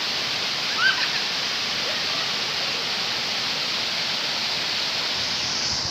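Waterfall rushing steadily, an even roar of falling water, with a short voice-like sound about a second in.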